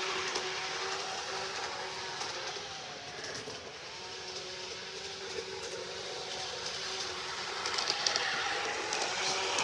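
G-scale garden model train running on its track: a steady hum and whir, with a few sharp clicks about eight seconds in.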